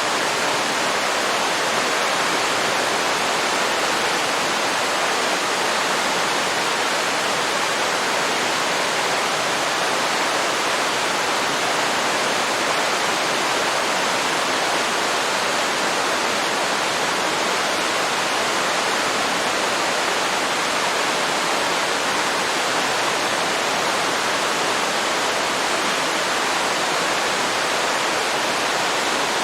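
Waterfall pouring into a river: a steady, unbroken rush of falling water.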